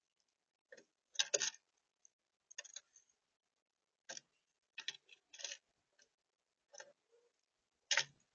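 Irregular short taps and clicks of birds pecking at a feeder close to the microphone, about eight in all with silence between.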